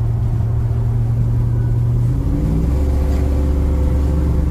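Truck engine running steadily under way, with road noise. Its note drops to a lower pitch about two seconds in.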